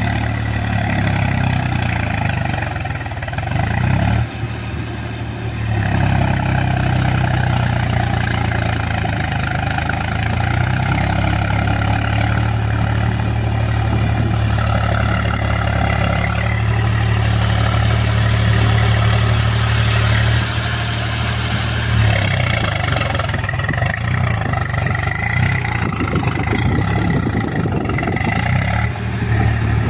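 Swaraj 735 FE tractor's three-cylinder diesel engine running steadily under load, pulling full cage wheels through soft paddy mud in third low gear. The engine note dips briefly twice.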